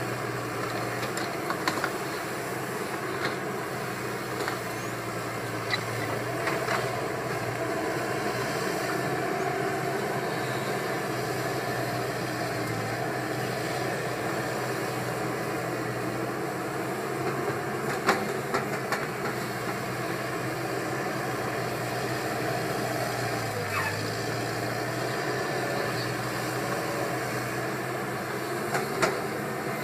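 Caterpillar 320 excavator's diesel engine running steadily, with scattered sharp clanks and knocks over it, the loudest about two-thirds of the way through and a few more near the end.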